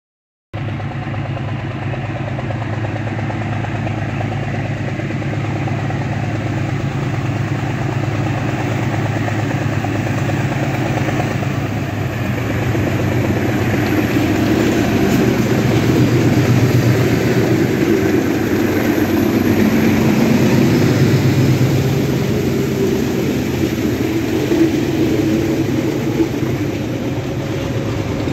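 Four GE U20C diesel-electric locomotives running as they approach and pass close by, their engine sound building to its loudest in the middle. Near the end, the empty hopper wagons behind them rolling over the rails.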